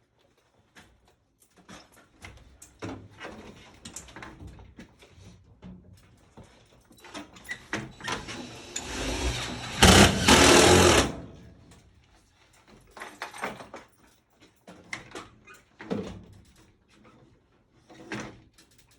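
Scattered knocks and clicks of sheet-metal work on a furnace, with a power tool's motor running loudly for about two seconds past halfway.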